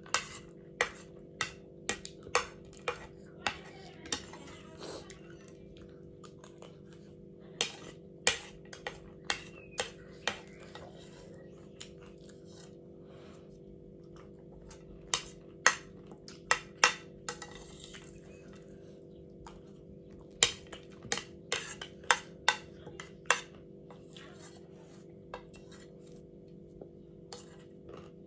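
A spoon clinking and scraping against a plate in irregular clusters of sharp ticks with pauses between them, over a steady low hum.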